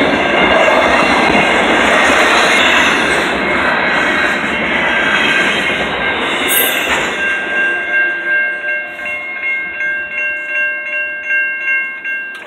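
BNSF intermodal freight train rolling past close by, its cars and wheels on the rails making a loud, steady noise. About seven seconds in the train clears, and a grade-crossing bell is left ringing about twice a second.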